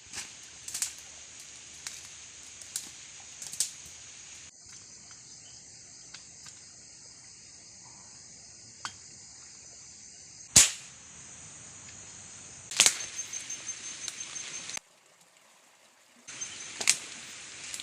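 Sharp shots from a hunting gun, the loudest about ten and a half seconds in, with several lighter clicks around it, over a steady high drone of forest insects. The insect drone changes and breaks off abruptly a few times.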